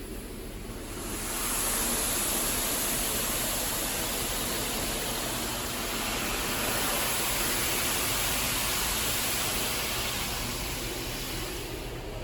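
In-bay automatic car wash spraying water against the car, a steady rushing hiss that swells about a second in and eases off near the end.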